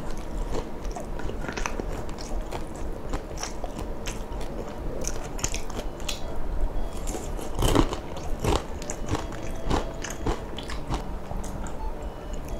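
Close-miked chewing and biting of food: wet mouth sounds with a run of sharp crunches, a couple of louder crunches a little past two-thirds through.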